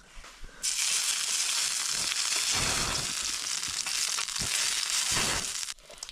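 Food sizzling in a hot frying pan: a loud, even sizzle that starts suddenly about half a second in and cuts off abruptly near the end.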